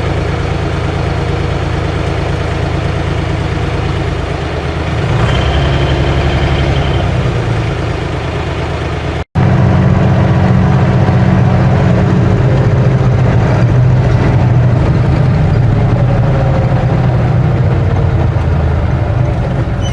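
Ursus 3512 tractor's three-cylinder diesel engine running steadily. There is an abrupt break about nine seconds in, after which the engine is louder.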